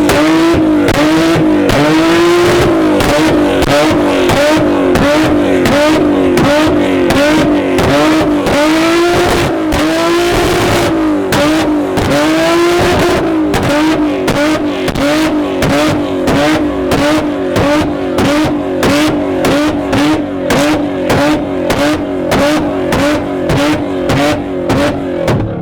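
Car engine revved hard and continuously in repeated blips, the pitch rising and falling about once a second at first and quickening near the end.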